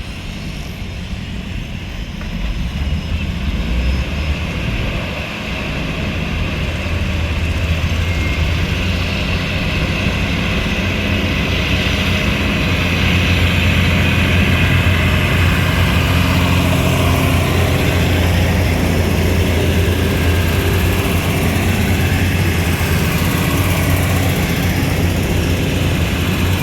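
Passenger train running, heard from inside a carriage: a steady low rumble with a hiss of wheel and air noise. It grows louder over the first dozen seconds, then holds steady.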